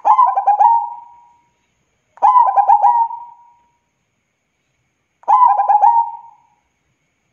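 Zebra dove cooing: three phrases of quick, clipped notes, each about a second long and trailing off, a few seconds apart.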